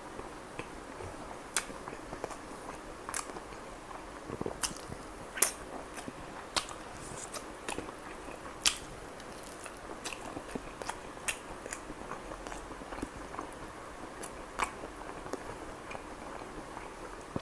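Close-up chewing and biting of chicken kalmi kabab, with irregular sharp mouth clicks and crunches every second or so.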